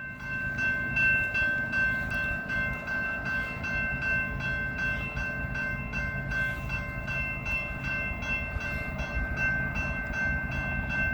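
Grade-crossing warning bell ringing at about two strikes a second over the low rumble of a BNSF freight train led by GE diesel locomotives (ES44C4 and Dash 9-44CW) passing at speed.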